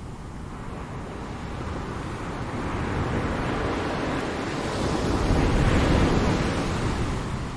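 Ocean wave swelling and breaking: a rush of surf that builds over a few seconds, peaks about five to six seconds in and washes back down, over a steady low rumble.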